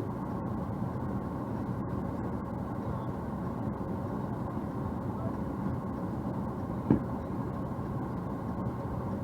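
Car engine idling with a steady hum, and one short click about seven seconds in.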